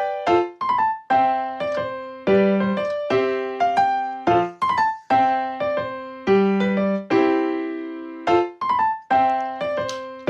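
Background piano music: a gentle melody of single notes and chords, each note struck and then fading, played at an even pace.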